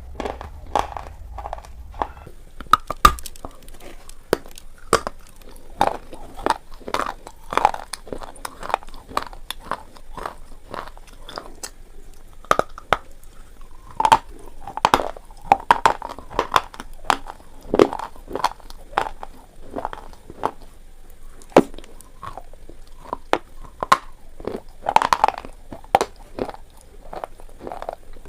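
Slate pencils being bitten and chewed: an irregular run of sharp, dry crunches, a few each second.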